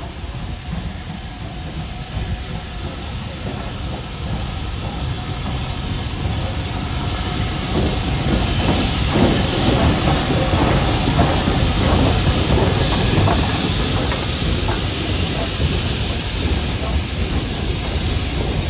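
BR Standard Class 5 two-cylinder 4-6-0 steam locomotive 73156 working a train past, with a low rumble and steam hiss that grow steadily louder to a peak about halfway through. Wheels click over rail joints while the train is loudest.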